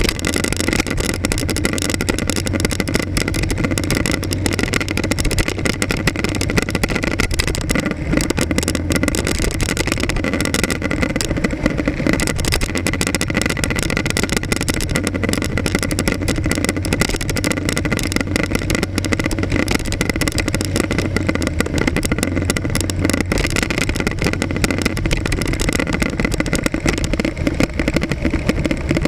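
Motorcycle engine running steadily among traffic, with wind and road noise picked up by an action camera mounted on the front of the bike.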